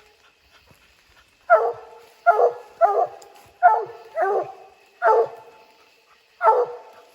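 Treeing Walker coonhound barking treed, with a raccoon up the tree: seven short barks, spaced unevenly, starting about a second and a half in.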